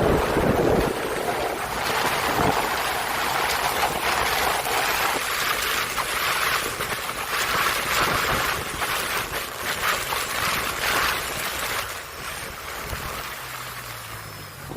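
Water rushing and splashing with wind buffeting the microphone as a jet ski moves across the water, a steady noisy wash that eases off near the end.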